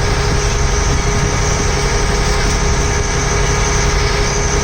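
Ferry boat's engine running steadily: a continuous low rumble with a steady hum.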